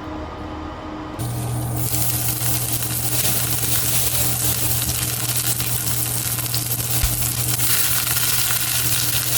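Food sizzling in a hot frying pan, starting suddenly about a second in and going on steadily, with a steady low hum starting at the same moment.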